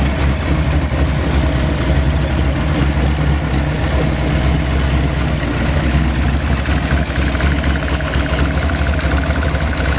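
Custom-built racing engine of a 1941 Willys hot rod idling loudly and steadily.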